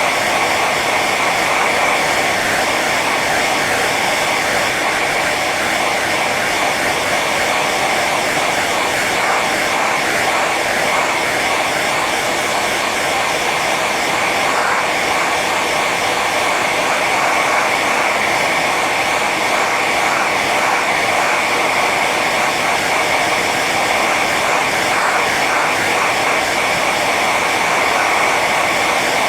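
Hair dryer running steadily on its high setting: a constant rush of blown air with a steady motor whine.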